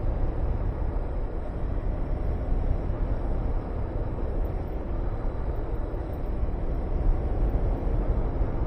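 Wind rushing over the microphone of a Honda VTR250 motorcycle on the move, with its V-twin engine running underneath. It is a steady, dense low rumble with no breaks.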